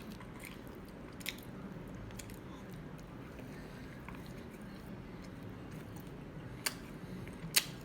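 Close-up chewing, a soft steady mouth noise of food being eaten, with a few sharp clicks, the last two near the end.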